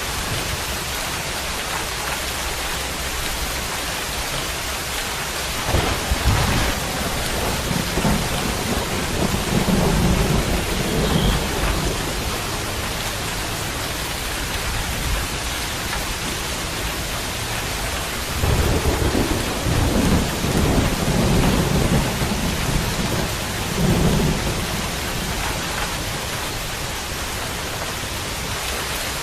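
Steady heavy rain hissing, with low rolls of thunder rumbling several times: about six seconds in, around ten seconds, and again in a longer spell from about eighteen to twenty-five seconds.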